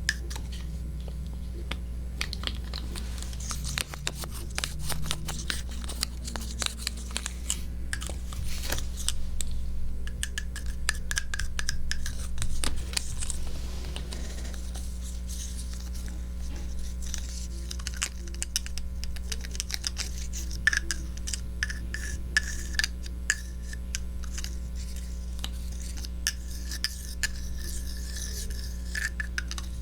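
Close-miked scratching and rubbing on a 3Dio binaural microphone, full of crisp crackling clicks, over a steady low hum.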